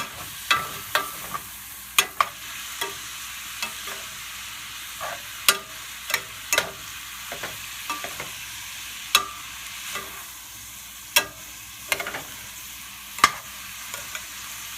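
Ground chicken sizzling in a skillet on medium heat while it is stirred, with irregular sharp clicks and scrapes of the stirring utensil against the pan over a steady hiss.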